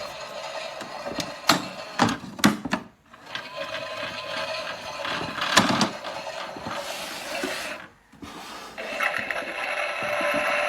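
Theo Klein Miele toy washing machine being handled, with several sharp clicks and knocks. About nine seconds in it starts running with a steady, even whir.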